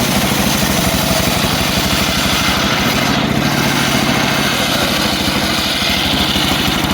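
Engine of a homemade circular sawmill running steadily with a rapid, even beat.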